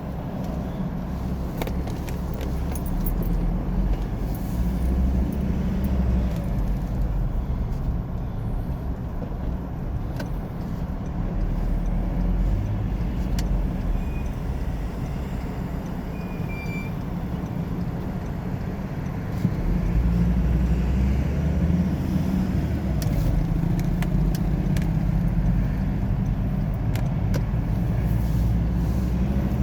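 Ute heard from inside its cabin while driving: steady engine and tyre rumble with light rattles, growing louder about two-thirds of the way through.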